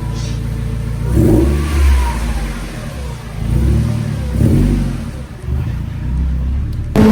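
Mazda MX-5 Miata four-cylinder engine through an aftermarket Magnaflow exhaust, idling and revved up several times in quick blips, each rising and falling back to idle. Near the end it cuts suddenly to a louder, steadier run of the engine.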